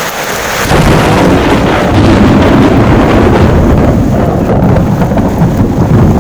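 Wind buffeting the microphone in a loud, choppy low rumble that sets in about a second in, over the hiss of heavy rain.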